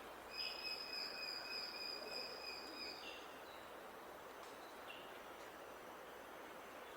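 Outdoor bird calls over a steady background hiss: one long, level whistled note held for almost three seconds, then a few short, separate chirps.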